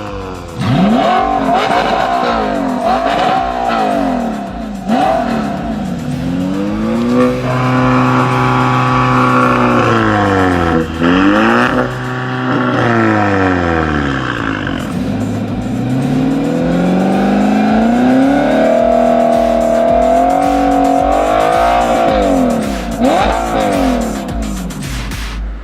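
Sports car engine through an Armytrix valved aftermarket exhaust, its revs rising and falling repeatedly as it accelerates and backs off, with a longer pull at steady high revs in the middle.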